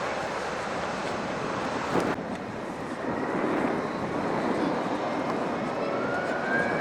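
Jet airliner engines running with a steady rush, and a high whine rising slowly near the end. A single sharp click comes about two seconds in.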